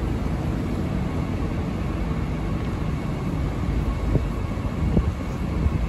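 Airport rail link electric train moving slowly along the platform track: a steady low rumble, with a couple of short knocks about four and five seconds in.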